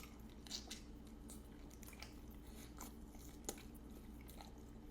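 A person chewing a Parmesan-crusted lamb chop, close to the microphone: faint, irregular moist chewing with a few soft crunchy bites, the clearest about half a second in and at about three and a half seconds.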